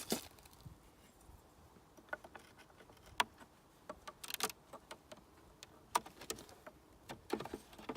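Irregular light knocks, clicks and brief scrapes of a nuc beehive's parts being handled and opened. There is a sharp knock near the start and clusters of clatter in the middle and near the end.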